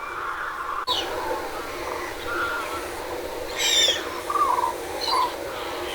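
Water rushing steadily through a pond sluice, with several bird calls over it; the loudest, a harsh call just past the middle, is followed by a few shorter calls.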